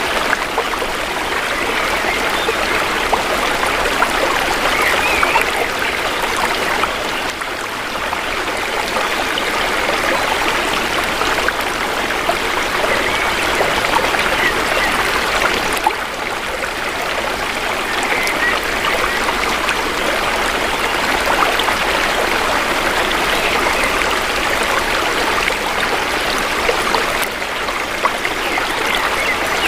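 Shallow river stream flowing, a steady babbling and trickling of water with small swells in level.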